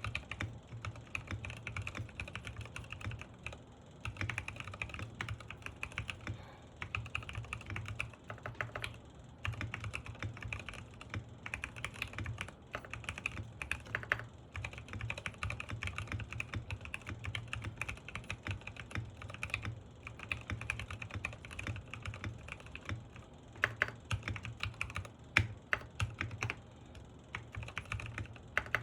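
Typing sound test on a Sky87 mechanical keyboard with Gateron Pro Milky Yellow linear switches and MDA-profile keycaps: fast runs of keystrokes broken by short pauses every few seconds.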